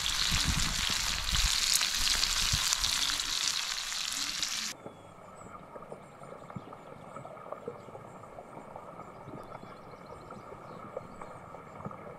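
Hartebeest cheese grillers, diced potatoes and mushrooms sizzling in a steel tray over a wood fire. The sizzle is loud for the first few seconds, then cuts off abruptly to a quieter sizzle with scattered pops.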